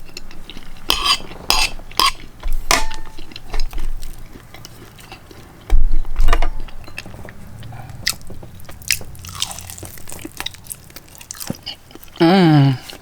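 A person chewing and eating close to the microphone, with scattered clicks of cutlery and dishes. There is a heavy low thud about six seconds in and a short voiced hum near the end.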